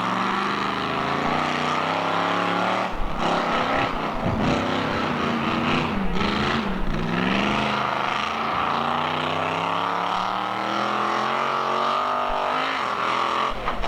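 Monster truck engine running hard under throttle, its pitch climbing, dropping sharply a few times around the middle and climbing again.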